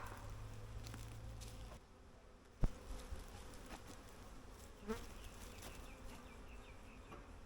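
Honey bees buzzing steadily around an opened hive, the colony agitated and turning defensive. A single sharp knock about two and a half seconds in.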